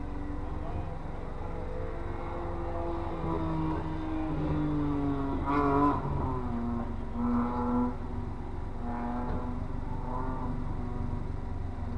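A race car's engine working around an autocross course, its pitch sliding down and then rising again in short pulls as it brakes and accelerates, loudest about six seconds in.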